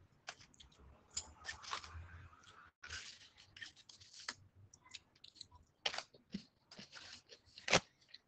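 A person chewing crunchy food close to a phone's microphone: irregular soft crunches and mouth clicks, with one louder crunch near the end.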